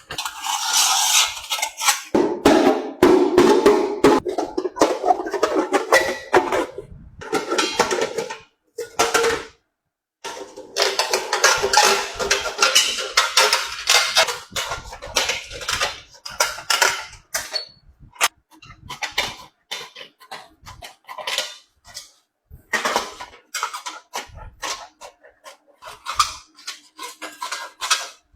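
Metal pot clattering and scraping in dense runs of short knocks while being handled and worked on. The pot's bottom is broken and is to be replaced. The clatter comes in long stretches with a short gap about ten seconds in, and turns to sparser knocks in the last third.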